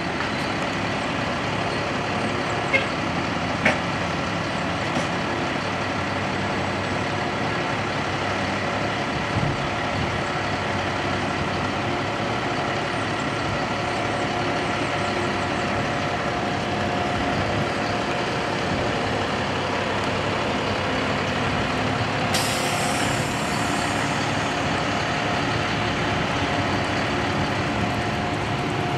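Heavy truck engine running steadily, with a short, loud hiss of air brakes about 22 seconds in.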